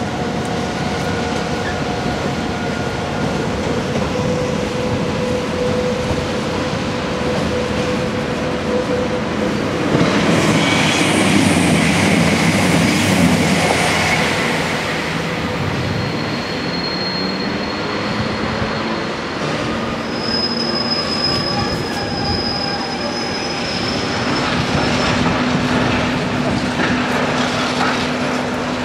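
Freight trains passing on the railway, a steady rumble of wheels on track that swells about ten seconds in. In the second half, steel wheels squeal in thin, high-pitched notes.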